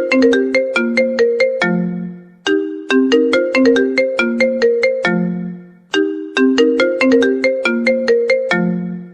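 iPhone-style ringtone melody: a short phrase of quick pitched notes that opens on a held low note and loops about every three and a half seconds.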